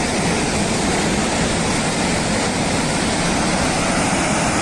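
Floodwater from a burst reservoir rushing down a mountainside: a loud, steady rush of water.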